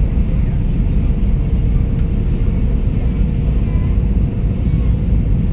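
Airbus A320 cabin noise: a steady, loud low rumble from the engines and airflow, with a faint steady hum.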